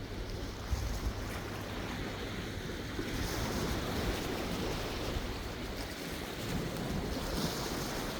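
Sea waves washing in and breaking, a steady surf hiss that swells louder about three seconds in and again near the end, with wind rumbling on the microphone.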